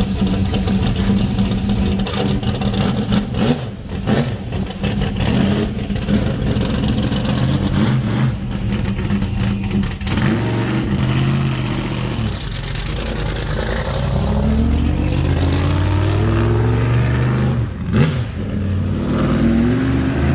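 1969 Chevrolet Corvette's freshly installed V8 running hard as the car is driven, the revs rising and falling. Near the end the pitch climbs, drops sharply, and climbs again.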